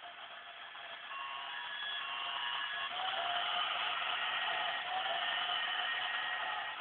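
Toy Christmas train locomotive running on its track, a steady whir that grows louder about a second in as the train comes near, then eases off near the end.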